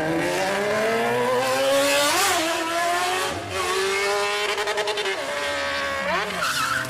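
Sport motorcycle engine revving hard, its pitch climbing through the first two seconds and then holding high, with a brief rapid stutter about two-thirds of the way through.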